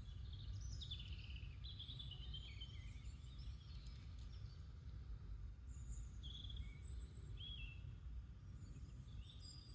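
Small wild birds chirping and singing in short, high phrases over a steady low rumble, busiest in the first few seconds and again past the middle.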